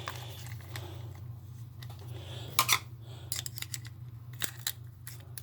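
Small plastic and metal parts of a remote-control Hummer clicking and knocking as they are handled and fitted together, in scattered irregular clicks, a cluster of louder ones a little after halfway; a steady low hum runs underneath.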